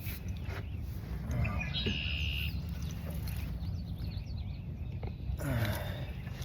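Marsh ambience: a steady low rumble with a short bird call about two seconds in, a few faint chirps after it, and a brief falling noise near the end.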